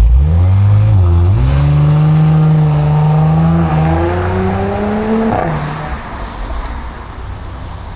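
Audi S5 Sportback's V6, fitted with a downpipe and RS exhaust, pulling hard at full throttle from a launch. The engine note rises, drops with an upshift about a second in, climbs steadily for about four seconds, drops with a second upshift, then gets quieter as the driver eases off.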